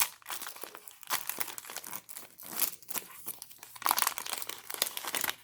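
Wrapper of a trading-card pack being torn open and crinkled by hand, in irregular bursts of crackling.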